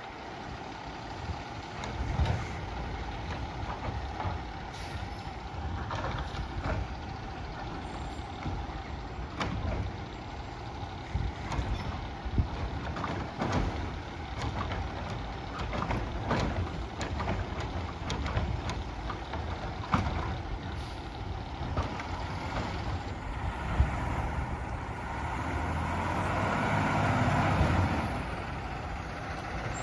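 Peterbilt 520 garbage truck with a Labrie Automizer automated side-loader running as it works a line of carts: a steady diesel engine with repeated clanks and knocks from the carts being gripped and dumped. The engine swells louder for a few seconds near the end.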